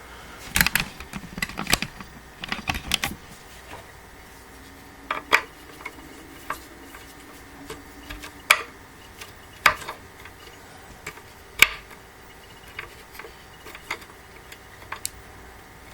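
Hand screwdriver tightening screws that fix a steel leg to a wooden panel. A cluster of clicks and knocks comes in the first three seconds, then single sharp clicks every second or two.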